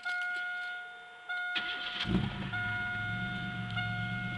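Chevrolet Beretta's 3100 V6 cold-started: a brief crank, the engine catches about two seconds in and settles into a steady idle. A steady high-pitched tone sounds throughout, broken briefly a few times.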